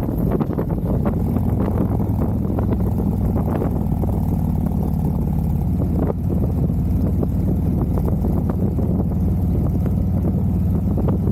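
Harley-Davidson V-twin motorcycle engine running at a steady cruising pitch while riding, with wind noise on the microphone.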